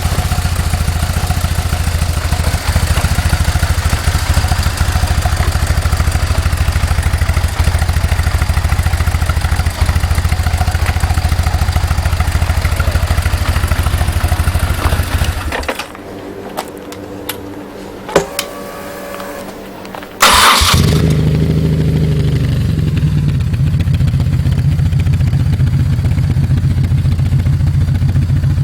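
BMW R1200C's air/oil-cooled boxer twin running through its Edhaust exhaust, then shut off about 15 seconds in. After a few seconds of quiet with some clicks, it is restarted with a sharp burst and settles into a steady idle that sounds duller, with less treble. The speaker calls the earlier sound the classic one and the later one not so classic.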